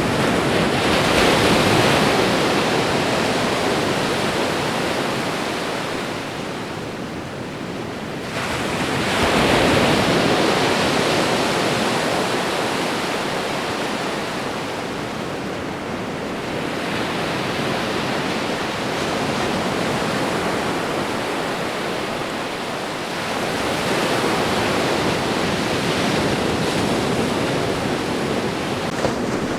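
Ocean waves breaking on a shore in a steady surf, with a new wave rushing in about every seven to eight seconds and then ebbing slowly.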